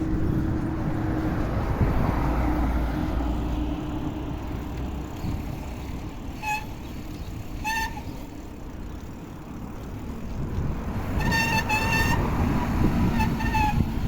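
Wind rushing over the microphone and road traffic rumble on a bike ride, cut by short high-pitched toots: one about six seconds in, another near eight seconds, a quick warbling run of several around eleven to twelve seconds, and one more near the end.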